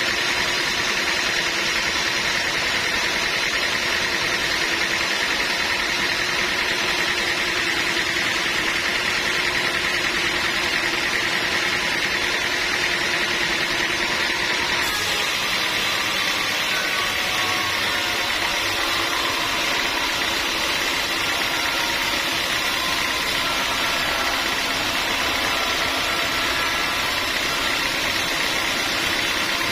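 Sawmill machinery running steadily, a constant mechanical drone with a high whine; the sound shifts abruptly about halfway through.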